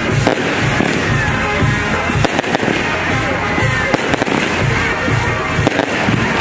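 Castillo fireworks tower burning: rapid crackling and popping from its spark-throwing firework pieces, with a few short whistles. Music with a steady beat plays underneath.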